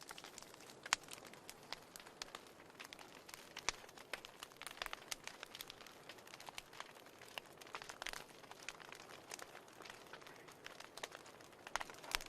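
Wood fire in a fireplace crackling quietly: irregular sharp pops and snaps, several a second, over a soft hiss.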